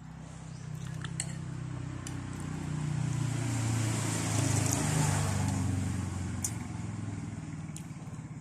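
A motor vehicle passing by: its engine and tyre noise grow louder, peak about halfway through, then fade away. A few light clicks sound over it.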